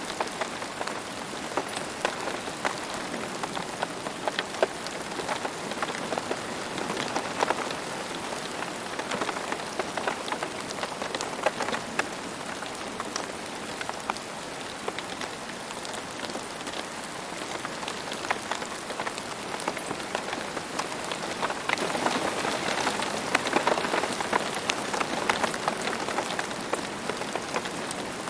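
Steady rain falling, a constant hiss with many separate drop hits ticking through it. It grows a little heavier about three-quarters of the way through.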